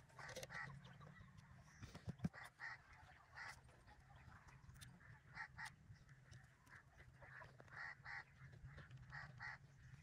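Faint birds calling: many short calls, often in pairs, repeating on and off over a low steady hum.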